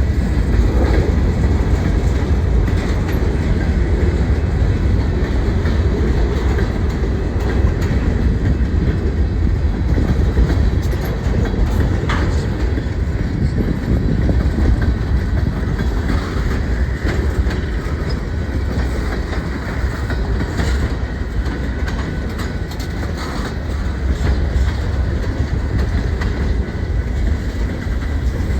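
Train rolling past on the tracks: a steady heavy rumble with scattered clicks of the wheels over the rails.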